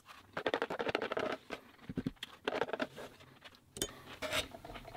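Close-miked chewing of a mouthful of instant noodles with crunchy vegetables: quick crisp crunches in a few clusters, with short pauses between.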